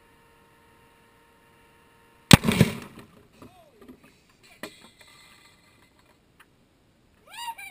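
A vacuum cleaner's motor whining steadily, then a sudden loud explosion a little over two seconds in as the sawdust and toe-warmer powder it has sucked up ignites inside it; the whine stops with the blast. A few smaller knocks of debris follow.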